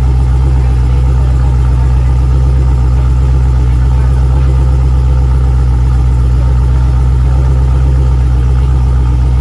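A car's exhaust idling steadily, recorded close to the tailpipe, a loud, even low drone with no revving.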